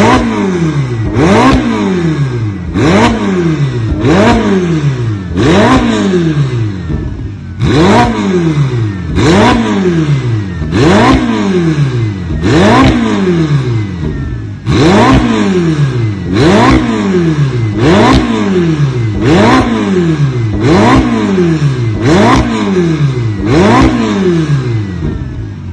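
Ferrari F8's twin-turbo V8 revved again and again, about one rev every one and a half seconds. Each rev climbs quickly and falls back more slowly, with a sharp crack near the top of most.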